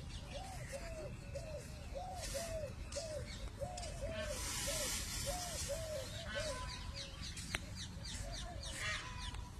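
A bird calling a long run of short notes, each rising and falling, about two or three a second, stopping about three-quarters of the way through. Quick, high, falling chirps from other birds crowd in near the end.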